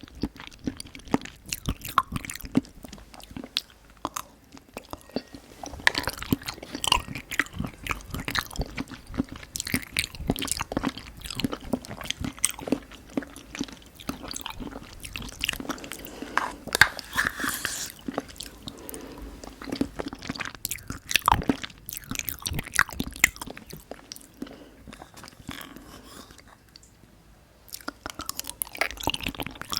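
Close-miked eating of Nanaco pudding: steady wet chewing and mouth clicks, pausing briefly a few seconds in and again near the end.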